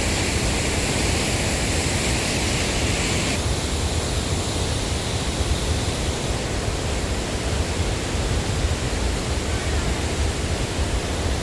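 Large waterfall's water rushing in a loud, steady wash of noise, a little less bright from about three seconds in.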